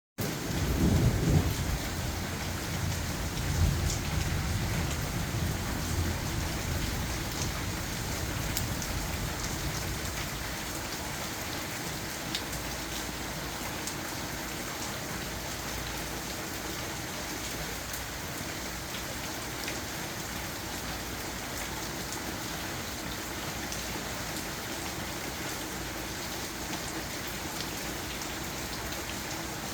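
Steady rain falling, an even hiss throughout. A low rumble under it during the first ten seconds, loudest about a second in, dies away.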